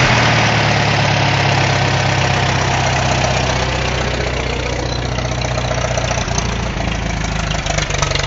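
Farmall M tractor's four-cylinder engine idling steadily just after a cold start, running smoothly. Near the end its individual firing beats become more distinct.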